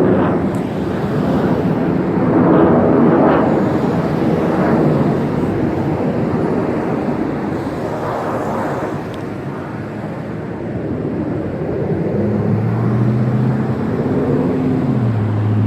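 Engine rumble outdoors, a steady noisy roar that swells a few times, joined in the last few seconds by a droning engine tone that steps up and down in pitch.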